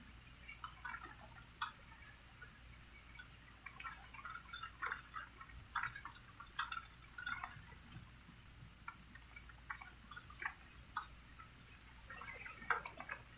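Raindrops dripping: scattered, irregular drops and plinks, some louder than others, with no steady patter of rain.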